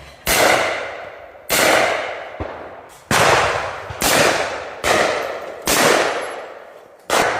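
A string of shotgun shots: seven loud reports roughly a second apart, and a fainter one about two and a half seconds in. Each report trails off in an echo before the next.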